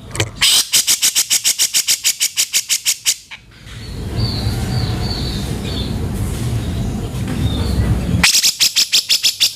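Cucak jenggot (grey-cheeked bulbul) giving its harsh, rasping call as a fast rattling run of about eight notes a second for some three seconds. A stretch of rumbling noise with faint high chirps follows, and then the rattling run starts again near the end.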